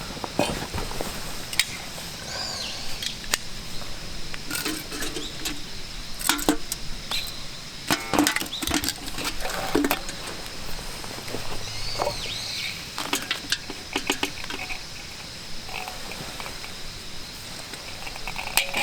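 Scattered clicks, knocks and light clinks of camp cookware and gear being handled, over a steady high-pitched tone. Two short chirping calls sound, about two seconds in and near the middle.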